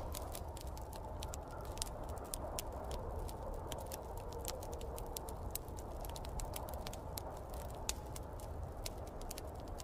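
Wood fire crackling in a fireplace, many irregular sharp pops, over the steady wind of a snowstorm and a low rumble.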